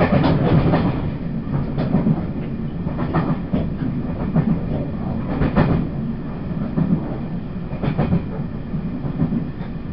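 Running sound inside a Taiwan Railways E1000-series push-pull Tze-Chiang express passenger car under way: a steady low rumble of wheels on rail with irregular knocks and clatters from the track every second or so.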